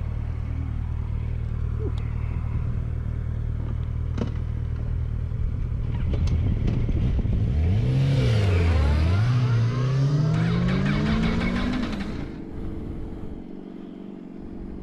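Motorcycle engine idling steadily, then revving and pulling away from about seven seconds in, its pitch rising and falling, then climbing steadily as it accelerates. It drops off and quiets down after about twelve seconds.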